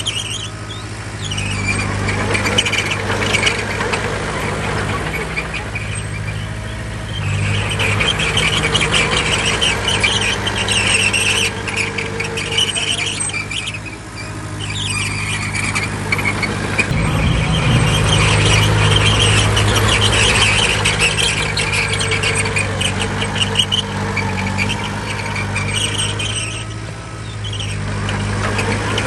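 Crawler bulldozer working: its diesel engine runs steadily under a high, chattering squeal from the steel tracks that comes and goes in stretches of several seconds. About halfway through, the engine loads up and runs louder.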